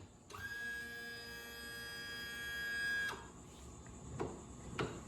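A steady electronic buzzer tone sounds for about three seconds and cuts off abruptly, followed by two short clicks.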